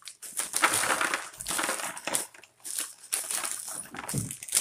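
Crinkling and crushing of packaging being handled, in irregular bursts.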